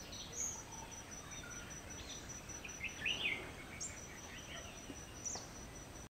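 Wild birds giving short chirps and whistled calls, the loudest a quick cluster about three seconds in, over a steady high-pitched pulsing insect trill.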